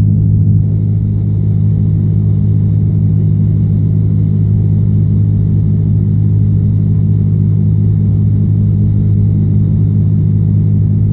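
Cessna 172's piston engine and propeller droning steadily in the cockpit on final approach, with no change in power.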